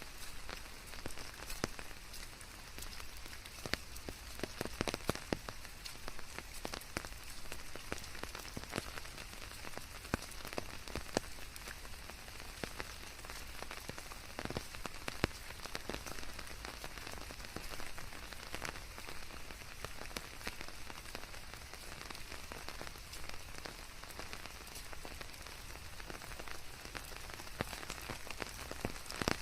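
Steady rain falling on leaves: a constant hiss of rainfall with many close, distinct drop ticks scattered through it.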